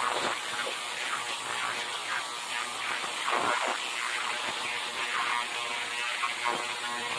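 Ultrasonic parts cleaner running with carburetor parts in its tank: a steady buzzing hiss with a light rattling crackle.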